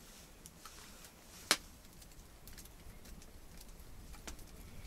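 Small wood campfire crackling faintly with scattered ticks and one sharper snap about a second and a half in.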